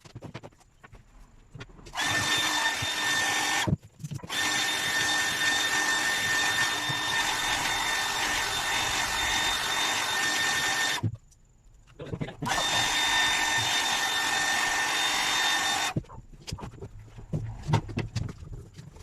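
Handheld power tool running at a steady high whine in three long runs, stopping and restarting twice, with light knocks and handling clicks in the pauses.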